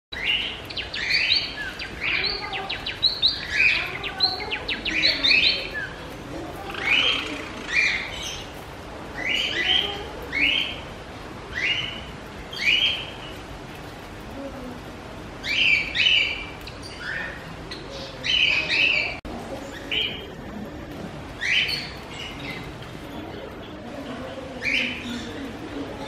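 Small cage birds chirping: a quick flurry of short, high chirps for the first few seconds, then single or paired chirps about once a second.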